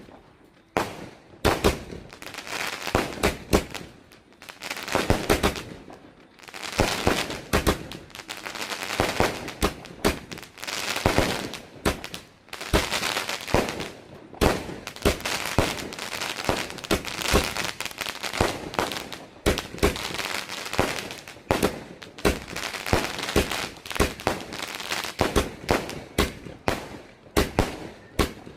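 A 60-shot crackling aerial firework cake firing: a long run of sharp bangs at irregular intervals, each followed by a spray of crackling.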